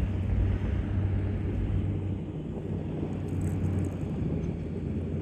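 Trackmobile's diesel engine running steadily, a low even hum that fades slightly over the seconds.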